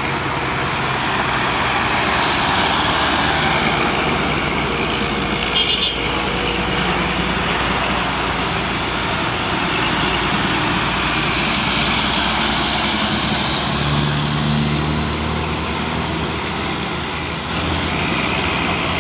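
Heavy vehicle engine running under load with steady traffic noise, the engine note shifting as it works; a brief high-pitched rattle about six seconds in.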